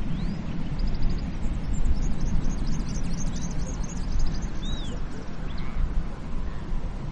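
Surf on a beach: a steady low rumble of waves breaking and washing in. Birds chirp in quick high clusters through the middle, with a few short rising whistle notes.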